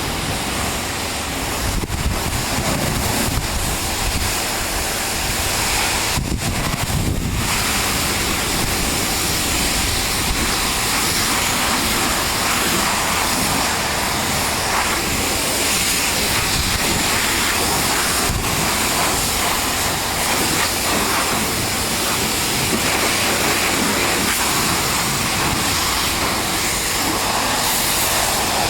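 High-pressure washer spray hissing steadily against equipment, with a brief break in the spray about six seconds in.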